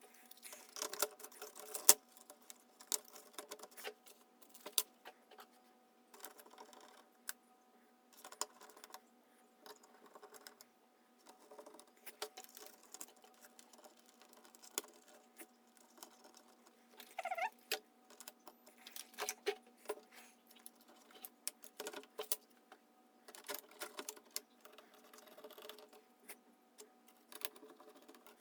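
Small irregular clicks, taps and scrapes of induction cooktop parts being handled and fitted back together during reassembly, with a faint steady hum underneath.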